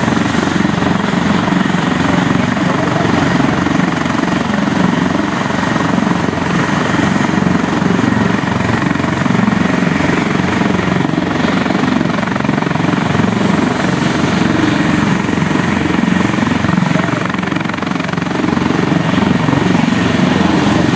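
Military transport helicopter running steadily on the ground, its rotor turning and turboshaft engines whining, with a thin steady high whine over the rotor noise.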